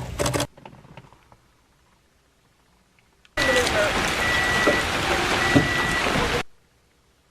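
Heavy rain hissing, with a few faint steady tones in it, cutting in suddenly about three seconds in and stopping just as suddenly about three seconds later. Before that, a rapid clicking dies away into quiet.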